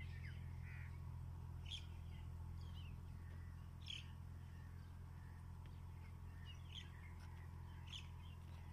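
Faint bird calls: a handful of short, scattered chirps, heard over a steady low hum.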